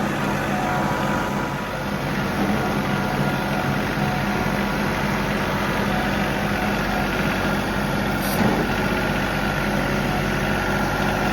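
John Deere 3038E compact tractor's three-cylinder diesel engine running steadily at a low, even speed.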